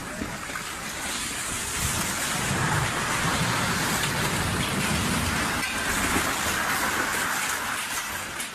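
Landslide of rock, mud and water rushing downhill: a dense, sustained rushing noise with a low rumble beneath it that swells about a second in and eases near the end.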